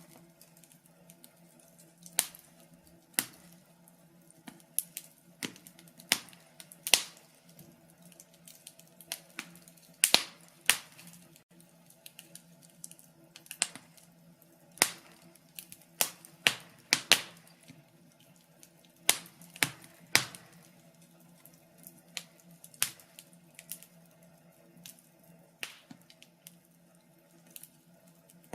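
Wood fire crackling, with irregular sharp pops and snaps about once or twice a second, some much louder than others, over a faint steady hum.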